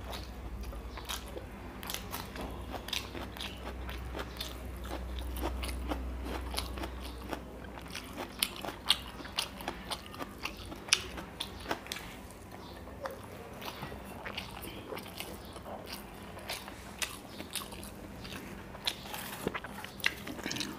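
Close-miked chewing and biting of a rice-and-curry meal eaten by hand: wet mouth clicks and crunches come in quick succession, sharpest a little after the middle. A low hum underneath fades out partway through.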